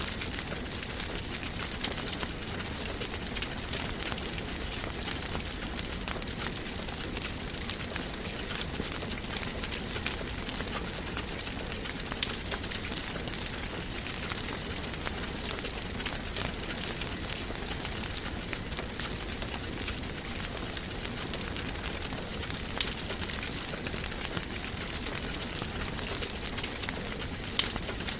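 Wood fire in a fireplace crackling, a steady hiss with frequent small pops and a few louder snaps.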